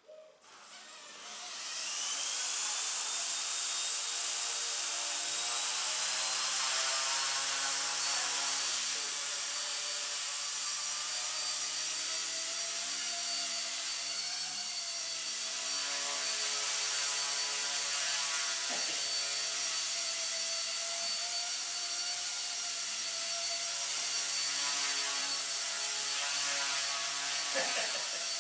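Blade mCP X BL2 micro RC helicopter's brushless motors spooling up over about two seconds. Then the motors and rotor blades run steadily with a high whine.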